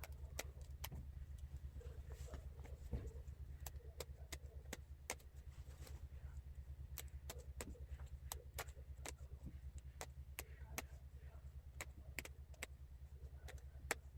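Sewing machine running with a steady low motor hum and a fast, even stitching beat, with sharp clicks scattered throughout.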